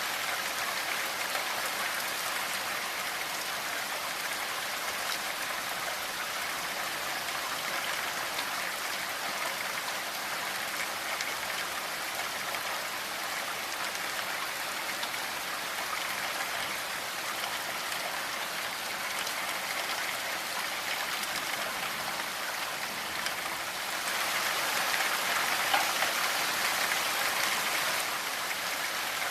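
Steady rainfall, an even hiss of drops falling on a surface. It grows heavier for a few seconds near the end, then settles back.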